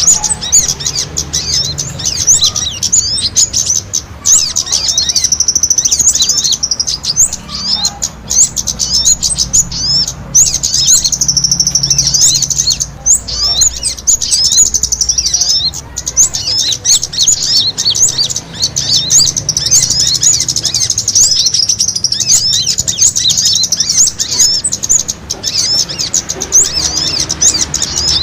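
Dense, rapid high-pitched chirping and twittering of several small birds, calling over one another without pause: a lure recording of small birds squabbling, played to draw wild birds in.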